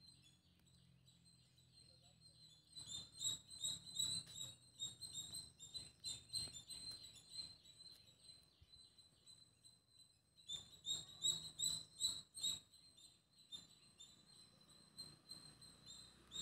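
Small bird chirping rapidly and repeatedly, many high chirps a second, in runs of several seconds with short pauses between.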